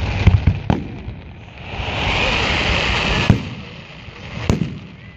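Aerial fireworks bursting overhead: a quick cluster of sharp bangs near the start, then a loud hissing swell of about a second and a half cut off by another bang, and one more bang near the end.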